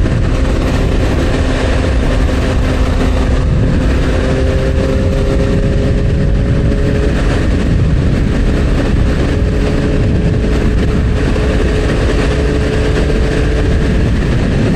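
Motorcycle engine running at a steady cruising speed, its pitch drifting only slightly, under a heavy rumble of wind and road noise on the helmet-mounted microphone.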